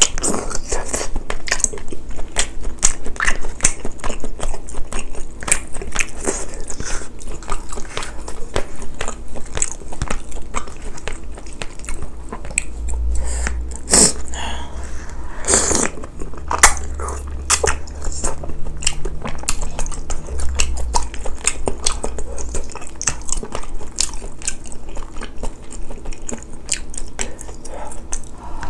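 Close-miked eating: steady chewing and biting of spicy braised chicken and glass noodles, with many quick, wet mouth clicks throughout.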